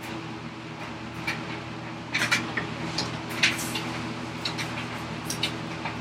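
Scattered light clicks and knocks of wood and hand tools being handled on a workbench, the sharpest in the middle, over a steady low hum.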